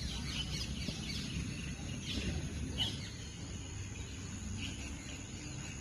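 Birds chirping now and then over a steady low background rumble.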